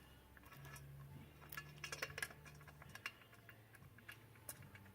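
Faint light metallic clicks and ticks of washers and small fixings being handled and placed on the inlet manifold studs, a few in quick succession around the middle and one more near the end.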